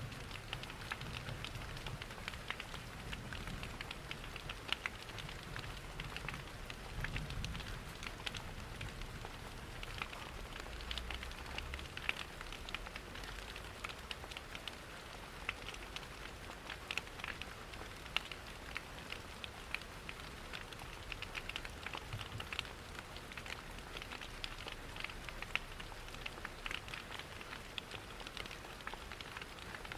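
Steady rain falling, mixed with the scattered small crackles of a wood fire in a fireplace and a low rumble underneath.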